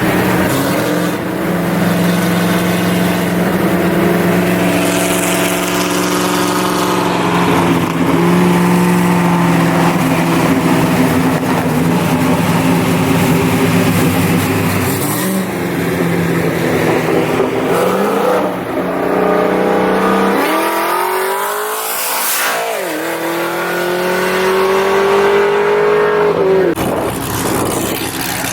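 Car engine under hard acceleration through the gears: its pitch climbs with each gear and drops at each shift, with a long rising pull near the end that cuts off sharply.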